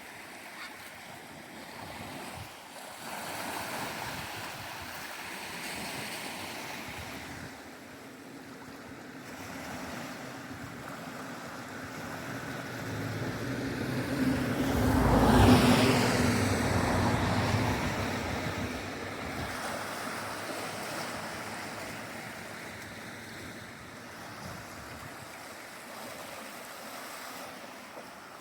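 An engine passes by with a steady low hum, growing louder to a peak about halfway through and then fading, over continuous wind and water noise.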